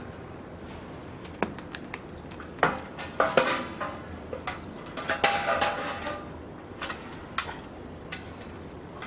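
Metal clinking and clattering: a run of sharp knocks and clanks, some ringing briefly, thickest between about three and six seconds in, over a steady low background.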